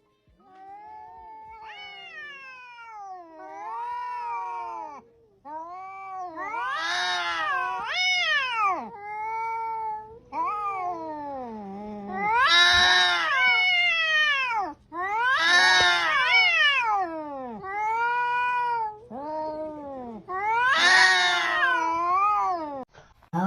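A domestic cat yowling, a run of about ten long drawn-out meows one after another, each rising and falling in pitch. The first few are quieter and the calls grow louder from about six seconds in.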